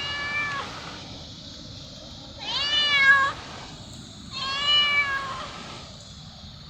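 A domestic cat meowing three times, each meow about a second long and rising then falling in pitch. The middle meow is the loudest.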